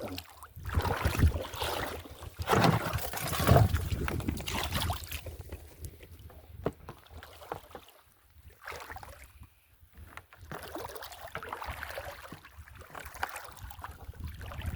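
Seawater sloshing and splashing in irregular surges, loudest over the first five seconds, then in fainter bursts.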